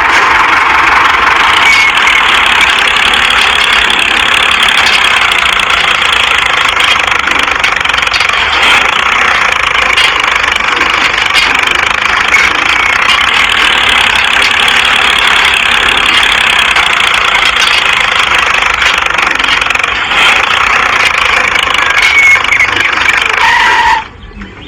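Mini tractor's motor running steadily with a dense, even mechanical noise, cutting off abruptly near the end.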